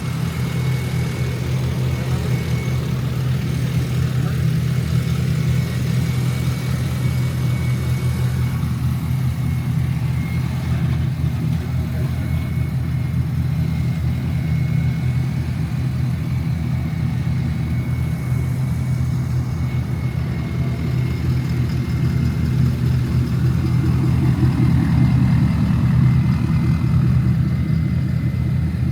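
A vehicle engine running steadily with a low rumble, swelling a little in the last few seconds, with a faint steady high whine over it.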